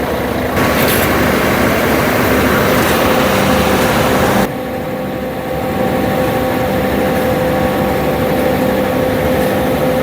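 Heavy diesel engines of concrete mixer trucks and a concrete pump running steadily, with a steady whine over the engine noise. About halfway through, the hiss above it cuts off abruptly.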